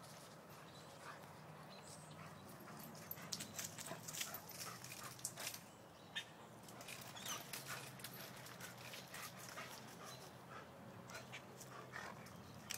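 A German Shepherd whining softly, among faint scattered clicks and scuffs.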